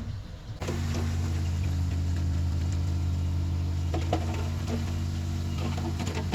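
Heavy earthmoving diesel engine running steadily, with a few scattered clanks.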